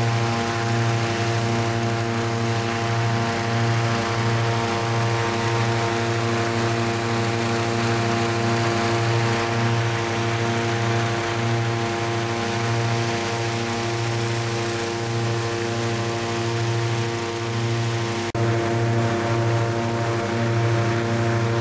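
An engine running steadily, a constant droning hum with a brief dip and click about eighteen seconds in.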